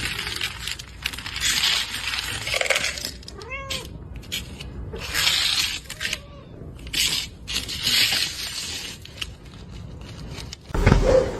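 A cat hissing repeatedly in long breathy bursts, with a couple of short meows in between. A loud thump breaks in near the end.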